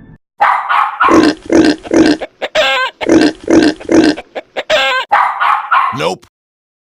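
A rapid, evenly spaced series of dog barks, including two runs of three matching barks, with wavering whines between them and a falling yelp near the end.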